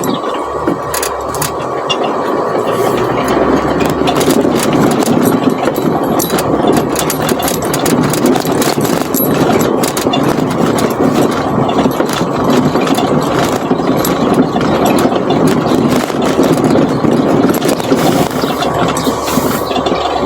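Car engine running as the car is driven, a steady drone with many small rattles and clicks over it.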